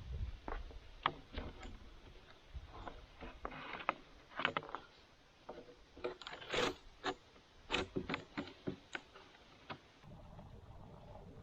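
A run of irregular knocks, clicks and short scrapes, some sharp, in no steady rhythm. They stop about ten seconds in, leaving a steady low rumble.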